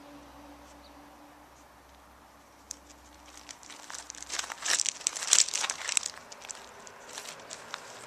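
Crinkling and rustling of crinkly material being crumpled, a quick run of sharp crackles starting about three seconds in and loudest around the middle, then easing off.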